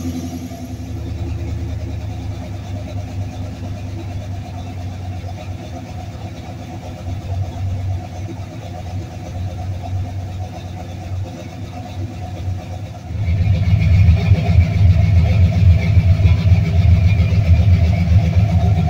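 Fuel-injected Ford Cleveland V8 in a 1970 Ford Torino, fitted with a big camshaft, running at idle around 960 rpm on one of its first runs. About thirteen seconds in, the engine sound gets markedly louder.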